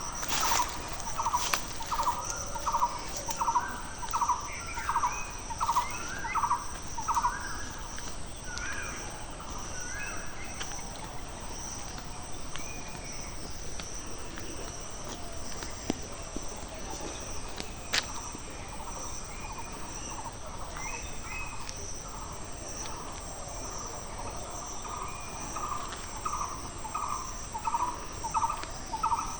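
A bird calling in a fast run of short repeated notes, about two or three a second, at the start and again near the end, with other birds chirping now and then over a steady high insect drone.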